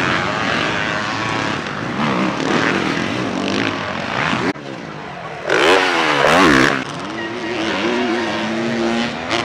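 Motocross bike engines revving hard on a dirt track, their pitch rising and falling as riders shift and throttle through the course. About halfway through, after a sudden drop, one bike revs loudly up and down close by, then settles into a steadier drone.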